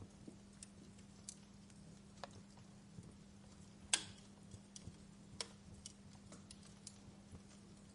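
Wood fire crackling: faint, irregular sharp pops and ticks over a low hiss, the loudest pop about four seconds in. A steady faint hum lies underneath.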